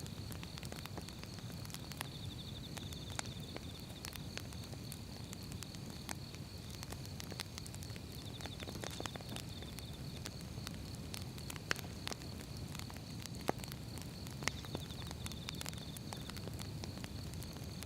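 Firewood burning, crackling with irregular sharp pops over a low, steady rumble of the flames. A few louder pops come in the second half.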